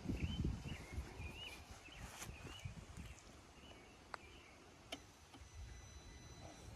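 A songbird singing faint warbled phrases for the first few seconds, with low wind rumble on the microphone and a couple of light clicks later on.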